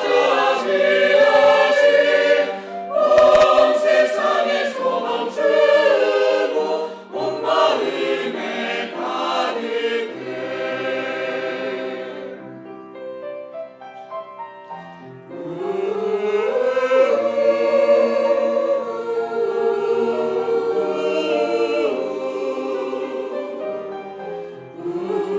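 Church choir singing a Christmas cantata with accompaniment, in several phrases; the singing drops to a soft, quieter passage about halfway through, then swells back to full voice.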